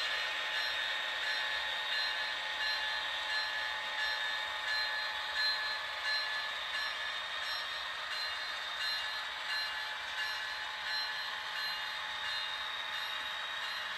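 A railway bell ringing steadily, about one and a half strikes a second, over the continuous hiss and rumble of a train.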